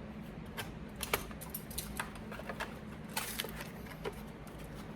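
Irregular light clicks and taps of small hard objects being handled, a few a second, with a couple of sharper clicks.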